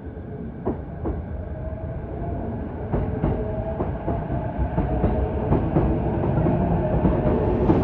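EF210 electric locomotive with a container freight train approaching and growing steadily louder, with a low rumble and a steady whine. Wheels knock over rail joints about a second in and then every half second or so from about three seconds in.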